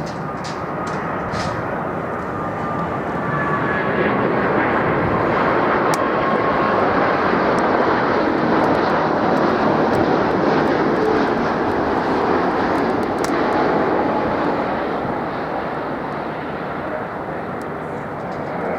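Jet airliner flying past on approach to land: its engine noise swells to a peak in the middle and slowly fades, with a faint whine falling in pitch in the first few seconds.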